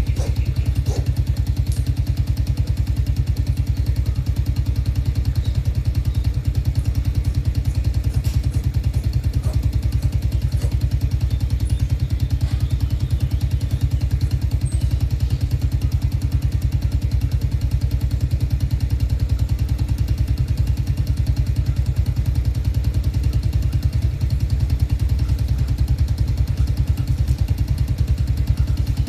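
A motor running steadily, a low continuous rumble with a fast even pulse.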